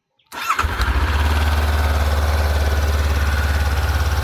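Honda CB500X parallel-twin engine started on the electric starter: a brief crank about a third of a second in, catching almost at once and settling into a steady idle.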